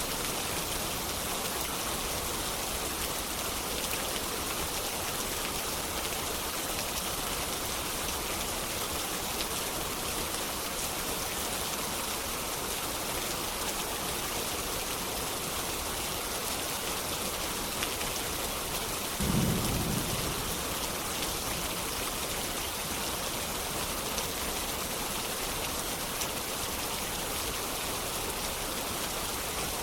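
Steady rain, with a brief low rumble of distant thunder about two-thirds of the way through.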